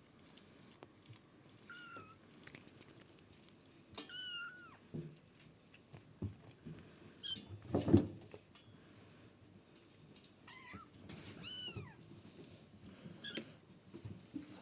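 A kitten mewing: several short, high-pitched mews spread out, the strongest about 4 s and 11 s in, each falling in pitch at the end. A loud knock comes about 8 s in, with small clicks and taps between the mews.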